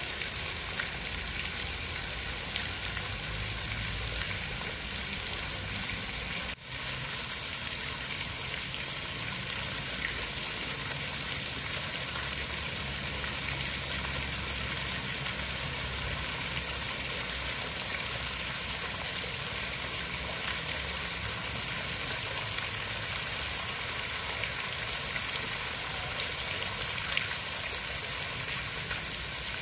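Steady hiss of falling rain, even and unbroken, with a brief dropout about six and a half seconds in.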